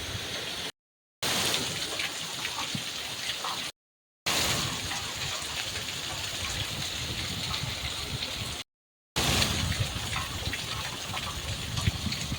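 Heavy rain falling steadily, a dense even hiss, cut off to dead silence three times for about half a second each.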